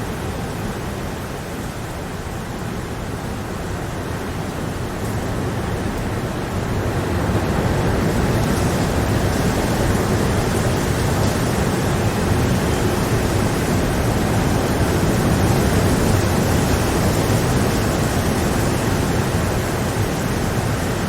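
Steady rain falling, a dense even wash of noise with no separate drops standing out, growing louder over a couple of seconds about six seconds in and then holding.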